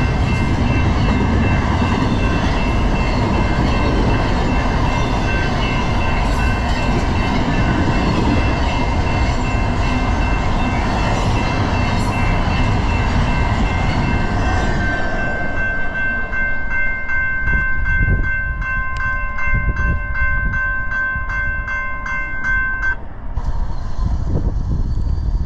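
A train passing with a heavy rumble that thins out about two-thirds of the way through. Over it a ringing of a few steady high tones keeps sounding; later it pulses about twice a second, then cuts off suddenly near the end.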